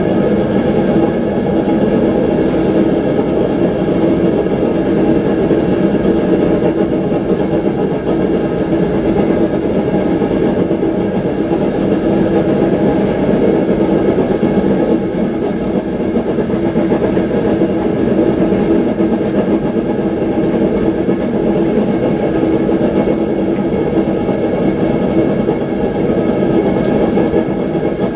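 Forge running: a loud, steady hum with a constant droning tone that does not change.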